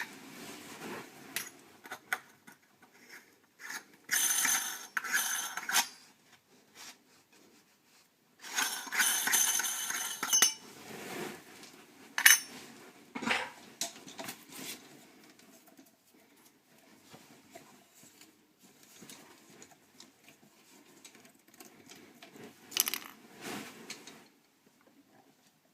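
Metal objects clinking and scraping in irregular bursts, two of them lasting about two seconds each, with a few sharp knocks around the middle.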